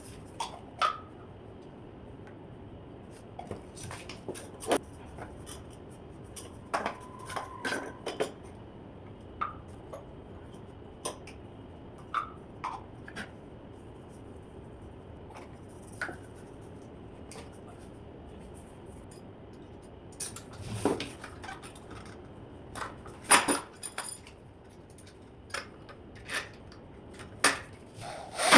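Irregular clinks and knocks of hard parts and tools being handled and set down during kitchen carpentry and plumbing fitting work. The strikes are scattered, with a closer run of sharper ones about three-quarters of the way through.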